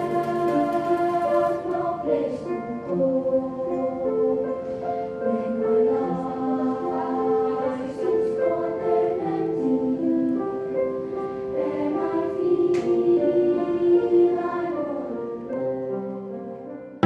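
Children's choir singing in several parts, holding long notes that move together from chord to chord.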